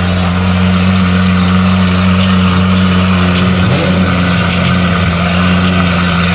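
A car engine running loudly at steady, held revs, with a deep, even exhaust drone.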